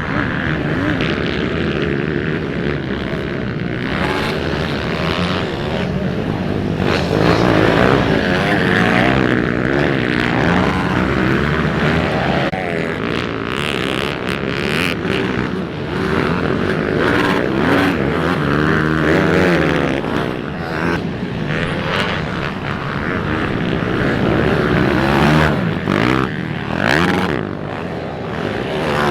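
Pit bike engines racing, revving hard with the pitch rising and falling over and over as they accelerate, shift and back off.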